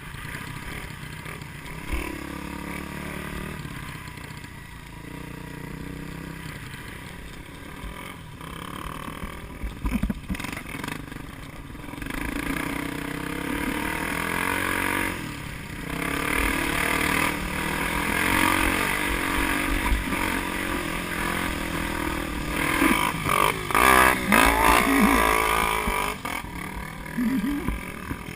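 A vehicle engine running under load, its pitch rising and falling as it is driven hard, getting louder about halfway through.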